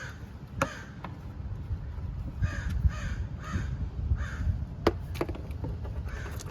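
A crow cawing, a run of four short caws about half a second apart near the middle. There are a few sharp plastic clicks around it from handling the refill hose and cap.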